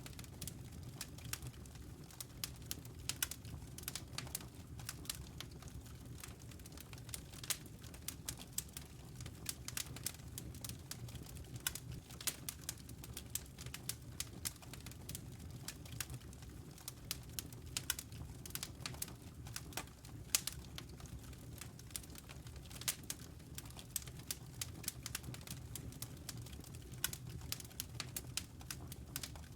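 Wood fire burning in a fireplace: irregular sharp pops and snaps from the burning logs over a steady low rumble of the flames.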